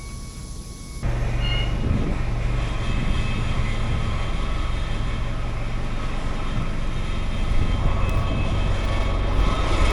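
Heavy engine running steadily with a low hum and broad mechanical noise, starting abruptly about a second in.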